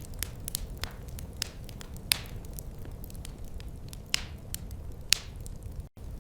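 Wood fire crackling: irregular snaps and pops, a few louder pops trailing off in a short hiss, over a low steady rumble of burning. The sound drops out for a moment near the end.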